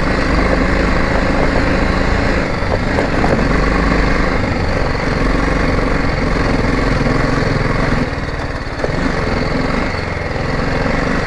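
Motorcycle engine running steadily as the bike is ridden up a rough track, easing off briefly about eight seconds in.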